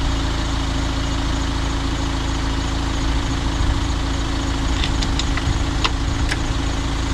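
Mahindra Thar's engine idling steadily, a continuous low hum. A few sharp clicks come about five to six seconds in.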